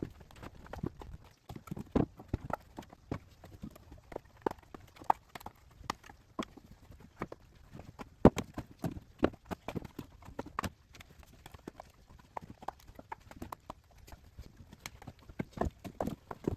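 Split walnut firewood knocking and clacking as pieces are dropped and stacked onto a woodpile, a busy, irregular string of sharp wooden knocks with a louder clack about eight seconds in.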